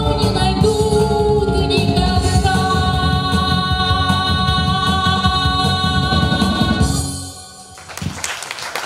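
A woman singing the final long held note of a song over a backing track with drums; the music stops about seven seconds in.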